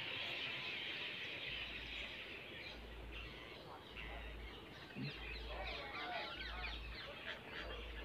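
Birds chirping in quick, short calls that grow busier about halfway through, over a steady high hiss in the first half.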